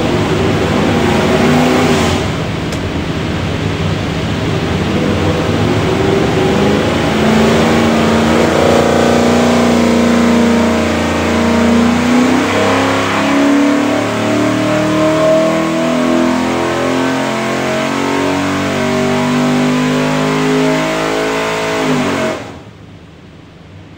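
363 cubic inch small-block Ford V8 with stack injection running hard on an engine dyno through a power pull, then cut off abruptly about 22 seconds in.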